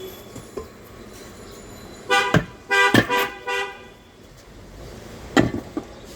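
A vehicle horn honks in three short toots in quick succession a little after two seconds in, with a few sharp knocks around it, one of them loud near the end.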